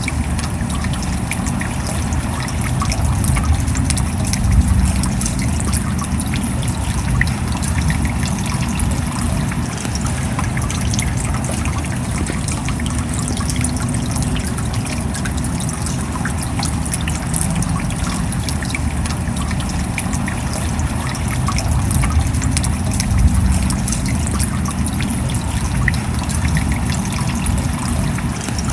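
Steady rain falling: an even hiss speckled with many small, sharp drop ticks.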